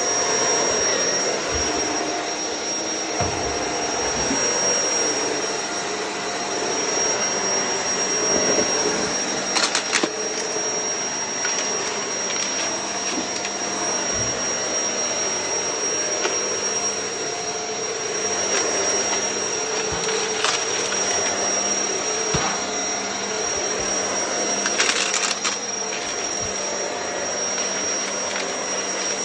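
Shark vacuum cleaner running steadily while vacuuming, a high motor whine over a constant rush of air, with a few brief clicks.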